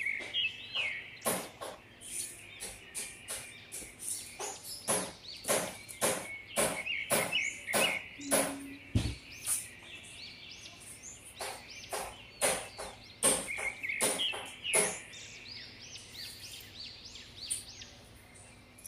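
Small birds chirping over and over in short, sharp chirps, roughly two a second, over a faint steady hiss, with a single low knock about nine seconds in.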